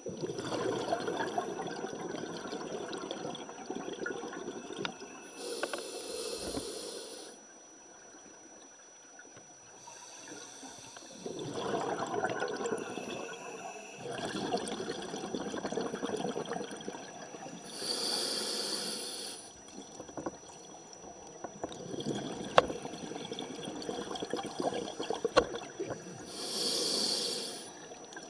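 Scuba diver breathing underwater through a regulator: three short, sharp hisses of inhaled air, with longer bubbling exhales between them.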